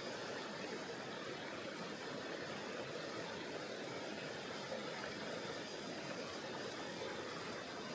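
Tonghou River water rushing steadily: a continuous, even wash of noise with no breaks or separate events.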